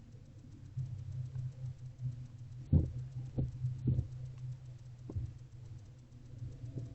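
Several soft knocks and thumps inside a barn owl nest box, four in all, the loudest a little under three seconds in, as a barn owl owlet moves about while feeding on a rodent. A steady low hum runs underneath.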